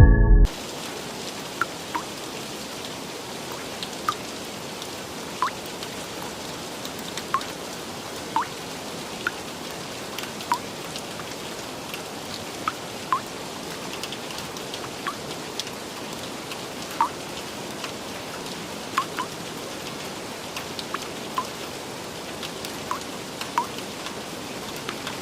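Steady rain falling, with individual drops landing in short pitched plinks every second or two over an even hiss.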